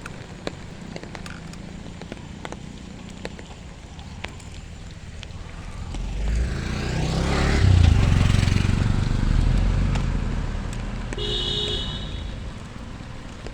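A motor vehicle passing by, its engine and tyre noise rising to a peak and fading over several seconds. A short beep sounds near the end.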